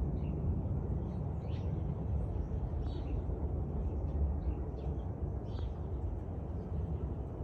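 Small birds chirping, short high calls every second or so, over a steady low rumble.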